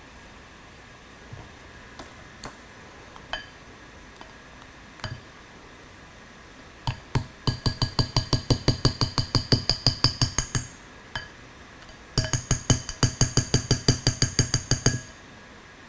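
Small wire whisk clinking rapidly against the inside of a coffee mug while mixing a thick brownie batter. A few scattered taps come first, then two runs of fast, even clinks at about six a second, each ringing briefly.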